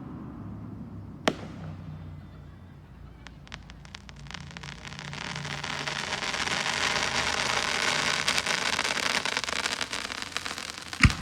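Fireworks display: a single sharp bang about a second in, then scattered crackles that build into a dense, sizzling crackle lasting several seconds, typical of crackling-star shells, with a loud bang near the end.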